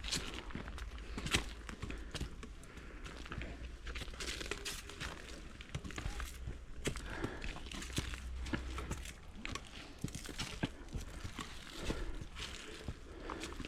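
Irregular crinkling and crunching with many scattered sharp clicks, over a low steady hum.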